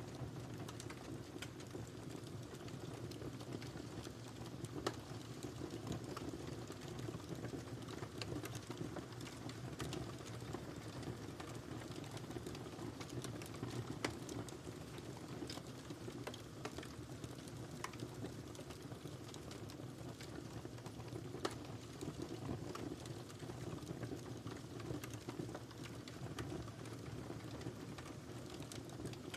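Wood fire crackling in a fireplace: a steady low rush of flames with many small ticks and a few sharper, louder pops.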